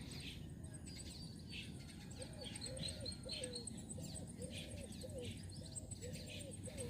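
Birds chirping, with a low arched call repeating in pairs from about two seconds in.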